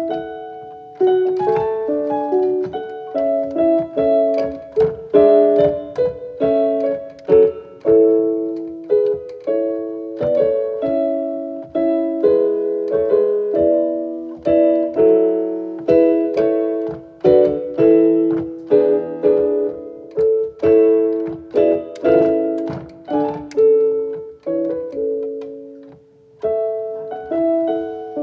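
Background piano music: a gentle melody of struck notes, each fading away.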